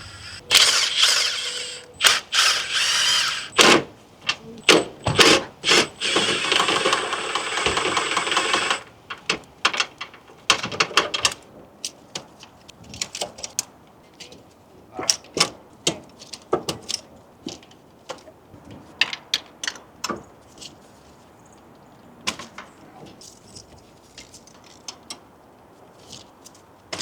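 Cordless impact wrench run in bursts, spinning spark plugs out, followed by scattered clicks and clinks of sockets, tools and plugs being handled.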